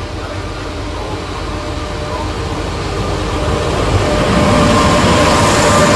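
Electric locomotive hauling passenger coaches past at speed: a steady running rumble that grows louder as the train comes by, with a steady whine from the locomotive joining in the second half.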